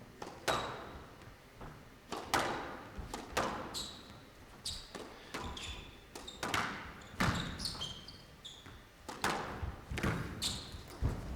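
Squash rally: the ball struck hard by rackets and hitting the walls roughly once a second, each crack echoing in the hall, with short squeaks of players' shoes on the court floor in between.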